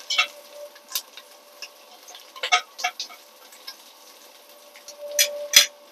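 Ginger and salted egg yolk frying in a little oil in a pot, with a low sizzle and scattered sharp clicks and pops from chopsticks stirring against the pot and spitting oil; the loudest click comes near the end.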